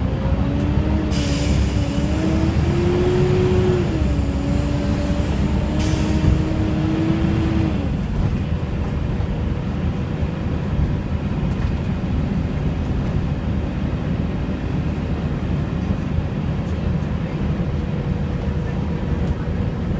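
Volvo B7TL bus running with a steady low engine rumble, over which its cooling fan makes a wavering 'hoover' whine that changes pitch a few times and cuts out about eight seconds in. Two short hisses of air come about a second and six seconds in.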